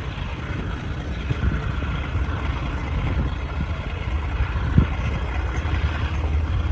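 Steady low rumble and noise of a passenger train carriage running along the track, heard from inside, with a single sharp knock almost five seconds in.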